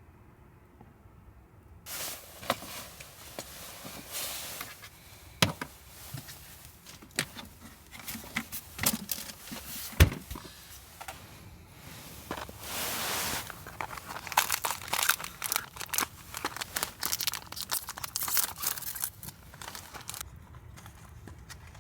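A plastic wrapper being crinkled and torn open, with a couple of sharp knocks; it starts about two seconds in, has a longer tearing sound in the middle and stops shortly before the end.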